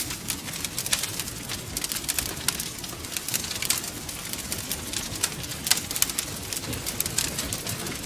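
Wood fire crackling, with frequent irregular pops and snaps over a low steady rumble of the flames.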